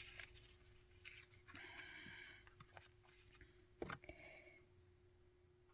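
Near silence with faint rustling from hand-sewing, as thick waxed thread is drawn through a thin cardboard tag, and one sharp small click a little under four seconds in.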